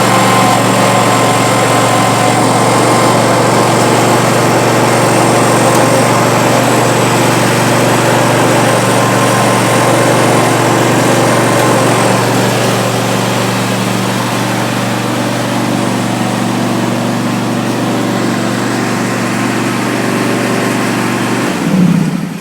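Craftsman PGT9500 30 hp lawn tractor engine running steadily, then cutting off abruptly near the end.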